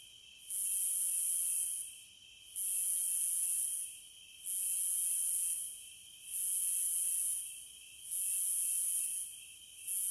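Periodical cicadas calling: a shrill buzz that swells, holds for over a second and drops away, repeating about every two seconds over a steady high drone.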